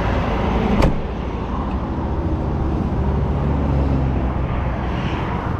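A motor vehicle's engine idling steadily, with one sharp knock or click just under a second in.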